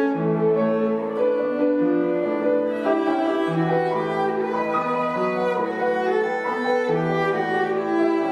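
A bowed string instrument playing a slow melody of long held notes, with piano accompaniment.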